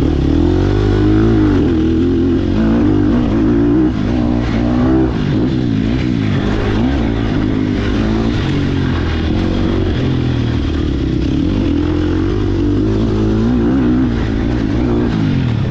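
Sherco SEF300 four-stroke single-cylinder enduro motorcycle being ridden, its engine pitch rising and falling over and over as the throttle is opened and closed.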